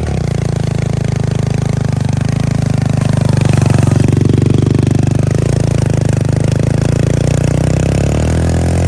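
Pit bike's small single-cylinder engine running steadily, revving up briefly about four seconds in and easing back to a steady run.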